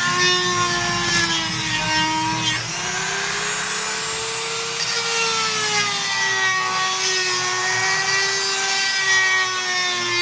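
Power drill running without a break as it bores or drives screws into the wooden door jamb, its motor whine dipping in pitch under load about two and a half seconds in and then climbing back.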